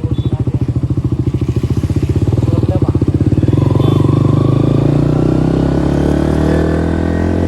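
KTM Duke 390's single-cylinder engine through an aftermarket exhaust, pulsing evenly at low revs for the first few seconds, then smoothing out and rising steadily in pitch as the bike pulls away.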